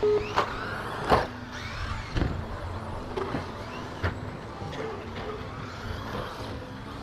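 Radio-controlled 2WD stadium trucks racing, their electric motors whining up and down in pitch as they accelerate and brake. Several sharp knocks of trucks landing and hitting, the loudest about a second in.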